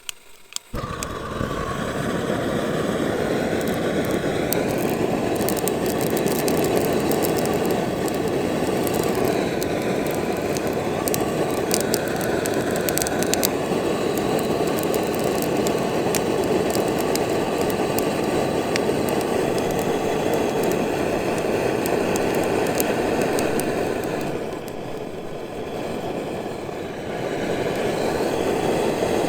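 Shinfuji Do-Ga GT-110 cassette-gas torch burner lighting about a second in and running with a steady loud rushing flame noise, with scattered crackling ticks in the first half. Its level drops for a few seconds near the end and then comes back.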